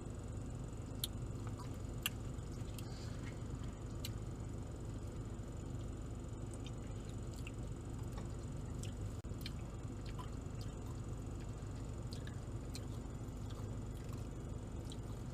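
Quiet eating sounds: scattered small clicks and soft chewing over a steady low hum.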